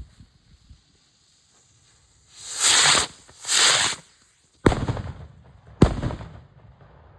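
Two Neptune firework rockets taking off one after the other, each a loud rushing hiss lasting under a second. About a second later come two sharp bangs, a little over a second apart, as they burst.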